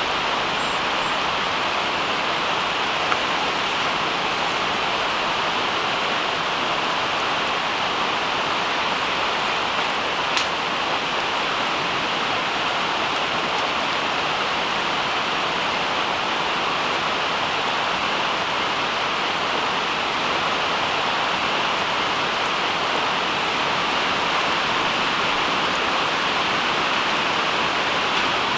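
Steady, even rushing noise that holds unchanged throughout, with a brief faint tick about ten seconds in.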